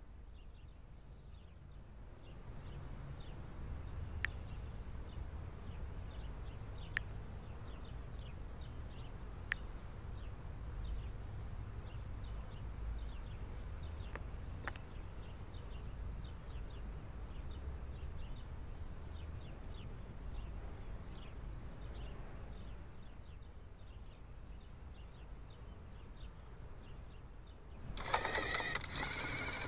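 A low steady hum with faint light ticking and a few sharp clicks. Near the end, a louder motor whine starts abruptly, typical of a robot vacuum starting up.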